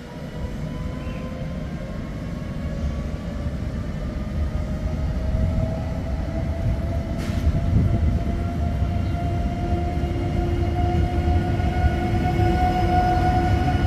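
Electric train accelerating along the platform: a low rumble that grows steadily louder, with a traction-motor whine rising slowly in pitch.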